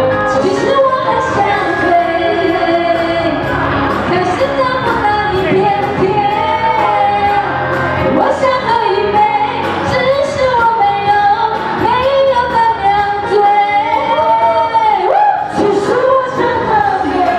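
A pop song sung over backing music, a woman's voice carrying the melody in long held notes.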